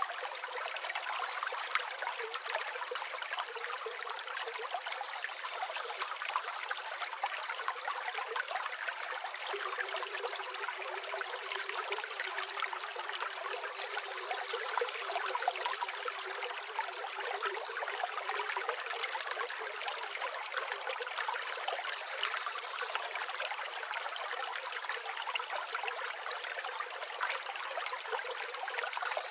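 Steady flowing river water, an even rushing with no deep rumble.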